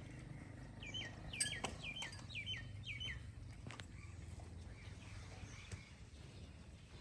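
A bird calling a quick run of about six short notes, each dropping in pitch, from about a second in to about three seconds in, over a steady low hum.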